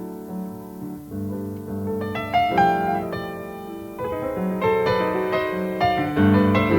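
Jazz piano playing held chords and melodic lines, growing fuller and louder about four seconds in.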